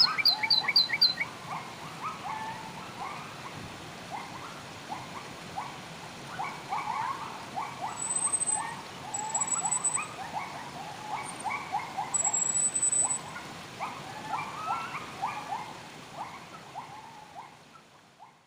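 Wild birds chirping and calling: a busy mix of short chirps, a quick run of high notes at the start, and a few thin, very high whistles, over a faint steady hiss. The whole sound fades out near the end.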